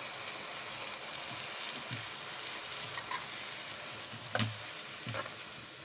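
Wet green masala paste sizzling in hot ghee in a steel wok as it is stirred in with fried carrot and cabbage, with a steady frying hiss. A few knocks of the utensil against the pan come through, the loudest a little past the middle.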